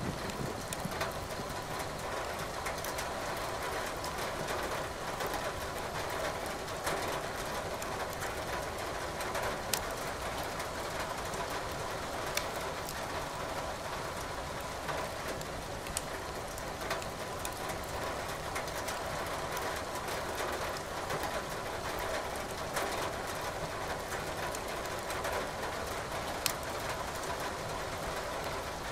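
Steady rain together with a wood fire crackling in a fireplace, with a few sharper pops here and there.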